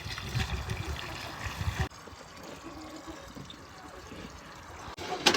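Water running from a garden hose, a steady trickling spray, louder for the first two seconds and then dropping abruptly to a quieter flow.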